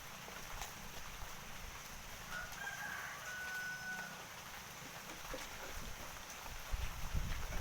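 A rooster crowing once, a drawn-out call about two to four seconds in, over a steady background hiss.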